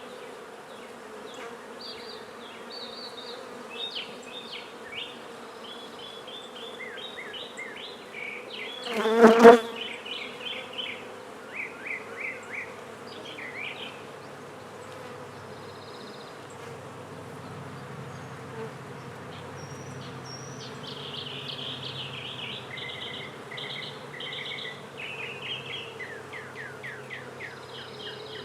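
Honey bees buzzing around an open hive in a steady hum. About nine seconds in, one bee buzzes loudly and briefly close by.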